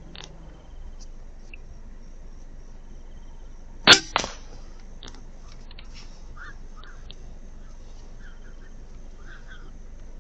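A single shot from an FX Impact M3 PCP air rifle, a sharp loud crack about four seconds in, followed a split second later by a second, weaker crack.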